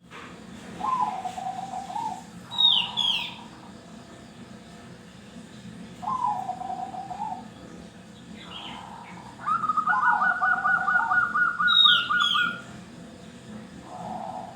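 Zebra doves (perkutut) cooing in rolling, trilled phrases, three of them, with a second, higher trill overlapping the last one for about three seconds from about ten seconds in. Twice, short high falling chirps from another small bird cut in.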